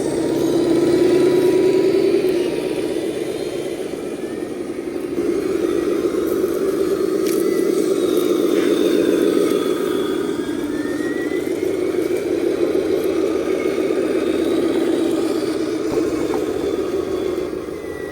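Radio-controlled Hino Ranger mining dump truck running, its motor and gears whirring with a whine that rises and falls as it speeds up and eases off. Loudest for the first couple of seconds, dipping about four seconds in, then steady.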